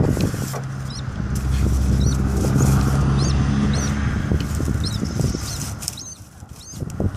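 Birds nesting inside a house vent line: repeated short high chirps over rustling and wing-flapping inside the duct, with a low rumble underneath.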